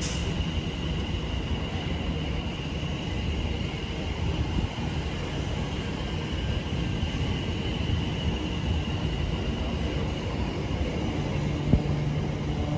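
A train running at the station: a steady rumble with a thin high whine over it, and a low steady hum joining near the end.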